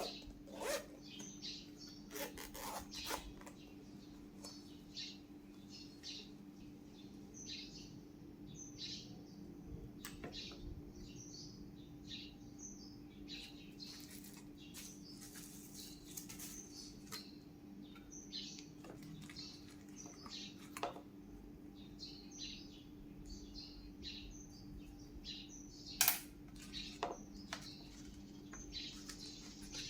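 Small birds chirping again and again in the background over a steady low hum, with a few sharp clicks and knocks from the parcel being handled; the loudest click comes near the end.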